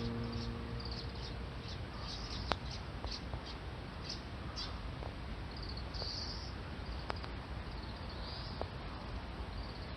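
Garden ambience with small birds chirping in short, repeated high calls and a few sharp clicks, as background music fades out in the first second or so.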